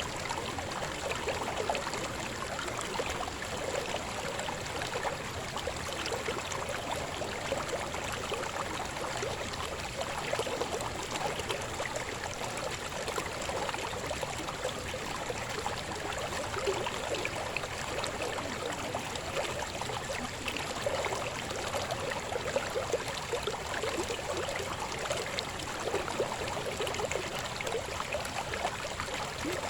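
Shallow river babbling over stones: a steady, even rush of water with constant small splashes and gurgles.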